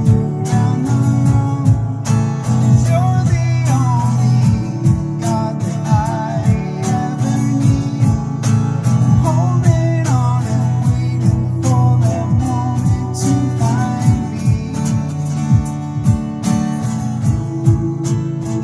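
Music: strummed acoustic guitar, with a wavering melody line above it.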